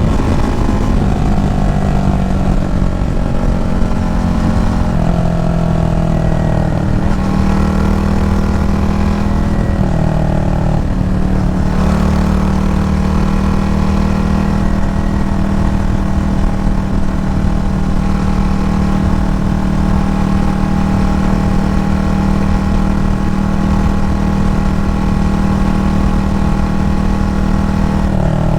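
Yamaha FZ25's single-cylinder engine heard from the rider's seat. For about the first twelve seconds its pitch falls in several steps, each step starting a little higher as the bike slows down through the gears. After that it runs at a steady pitch.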